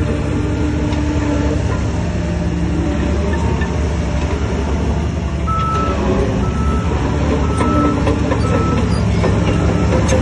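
Heavy diesel earthmoving machinery running steadily under load, and from about halfway in a reversing alarm beeping about once a second.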